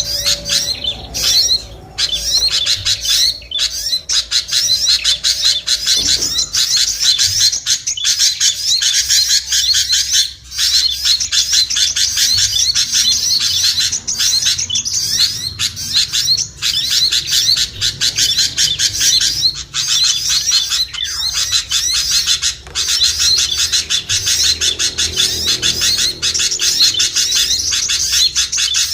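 Bird-lure recording of many small songbirds calling at once: a dense, noisy chatter of fast, high chirps and twitters that hardly lets up. It is meant to pull small birds down to the caller.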